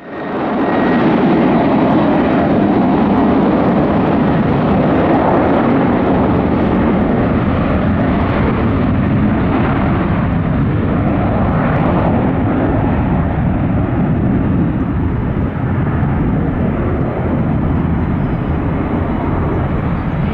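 Boeing 737-900 jet airliner taking off, its twin CFM56 turbofan engines at takeoff power: loud, steady jet noise that eases slightly near the end.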